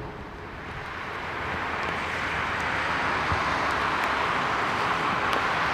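Jet airliner engines, a steady rushing whine that grows louder from about a second in.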